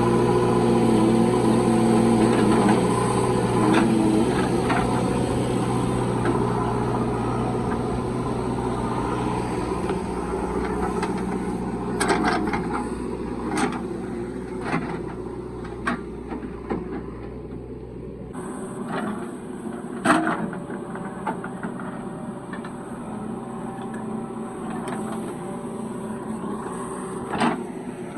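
Heavy diesel engine running steadily, slowly getting quieter over the first half. Scattered sharp knocks follow. About two-thirds of the way in the low engine hum drops away abruptly.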